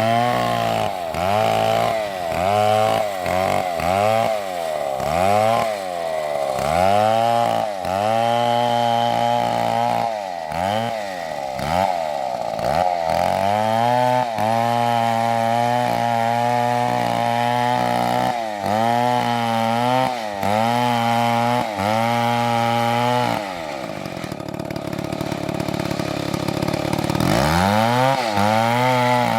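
Chainsaw cutting into a tree, its engine note repeatedly falling and rising as it bogs under load and recovers. About three-quarters of the way through it drops to a lower, steadier note for a few seconds, then revs back up near the end.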